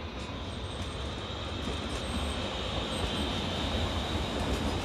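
BLS electric multiple-unit passenger train running past along the platform track: a steady rush and rumble of wheels on rail that slowly grows louder as it comes closer, with a faint high wheel squeal around the middle.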